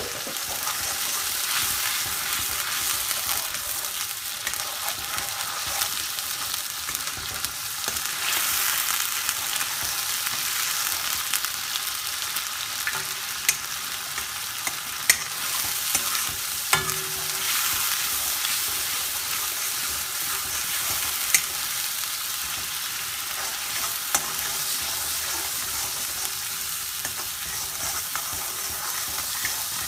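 Green chilli, onion and garlic paste sizzling in hot oil in a karahi, stirred with a metal spoon that now and then clinks and scrapes sharply against the pan.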